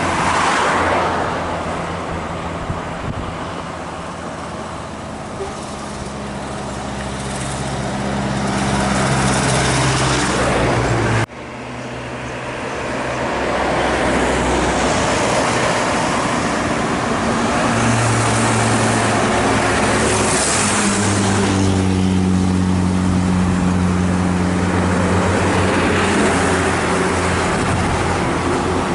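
Heavy road vehicles, buses or trucks, passing close by with engine drone and tyre noise. The sound breaks off sharply about eleven seconds in, then picks up again. A loud engine with a steady low note holds through the second half.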